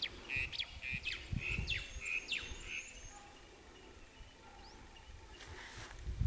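A bird calling: a quick run of short chirps and downward-slurred notes for about three seconds, then faint. A low rumble rises near the end.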